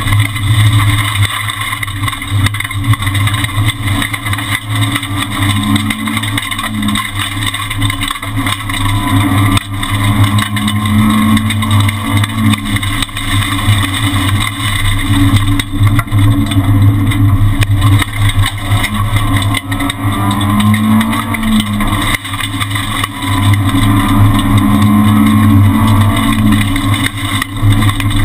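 Renault Twingo R1 rally car's 1.6-litre four-cylinder engine heard from inside the cabin, driven hard at speed, its revs rising and falling through gear changes under loud road and wind noise.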